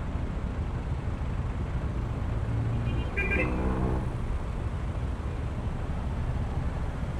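Honda ADV160 scooter's single-cylinder engine running under way, with steady road and wind rumble. A brief pitched sound, falling slightly in pitch, cuts in about three seconds in.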